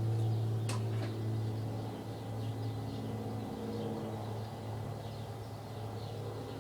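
2013 Mercedes-Benz C300 4Matic's V6 engine idling through its exhaust, a steady low hum that eases slightly about two seconds in, with a couple of light clicks near the start.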